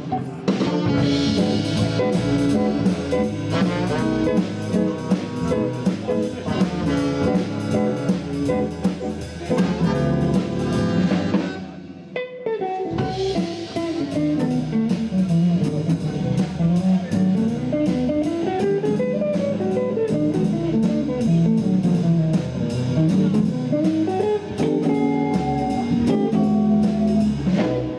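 Small jazz band playing a swing tune live: guitar to the fore over bass and drum kit, with an even cymbal beat. The music drops away briefly about twelve seconds in, then carries on.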